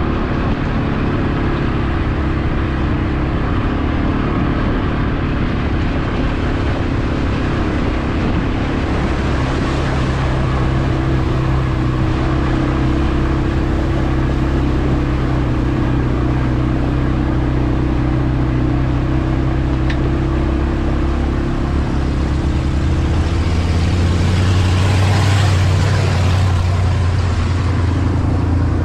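CFmoto CForce 520 ATV's single-cylinder engine running while riding, its note shifting up and down with the throttle. About three-quarters of the way through it gets a little louder, with added hiss.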